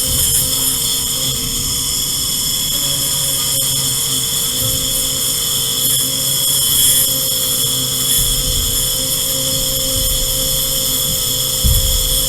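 A motor running steadily, with a constant high whine and a slightly wavering hum.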